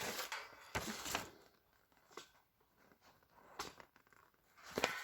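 Rustling and crinkling with a few light knocks as the parts of a metal shelving unit are handled during assembly.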